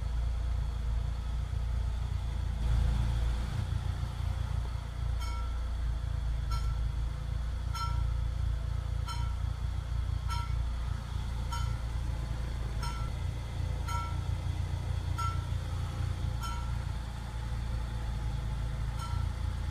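Peugeot 406 engine idling steadily at about 1000 rpm, heard from inside the cabin while it warms up toward normal operating temperature. From about five seconds in, a light tick repeats roughly once every second and a bit.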